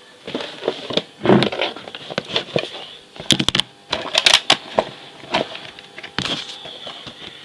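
Handling noise: an irregular run of sharp clicks, taps and crackles, densest from about three to four and a half seconds in.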